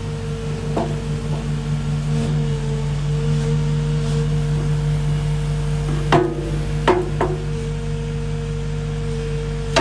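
Caterpillar CAT 310 excavator's diesel engine idling steadily, with two sharp metallic knocks about six and seven seconds in and another at the end.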